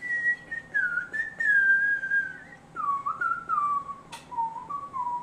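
A person whistling a short tune of gliding notes that drift downward in pitch, with a single sharp click a little after four seconds.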